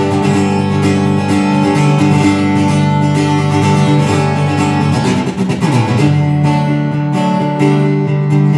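Acoustic guitar strummed in a live instrumental break between sung lines, holding steady chords that change about five seconds in.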